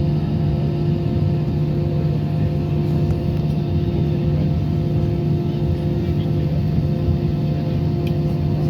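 Airbus A320-216 cabin on the ground with its CFM56 engines near idle: a steady low rumble with a constant hum of several fixed tones and air-conditioning hiss.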